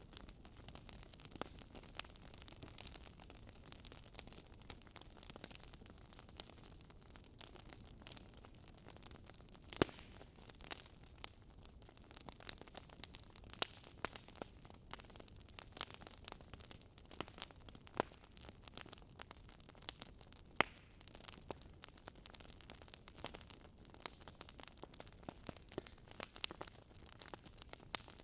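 Wood fire crackling in a fireplace: a soft steady hiss with irregular sharp pops and snaps, the loudest about ten seconds in and again about twenty seconds in.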